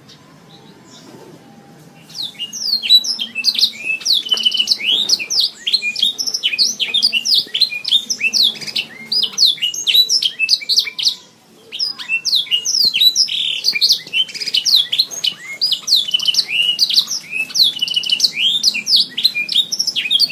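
Domestic canary singing a fast, continuous song of rapid high chirps and trills. It starts about two seconds in and breaks off briefly a little past the middle.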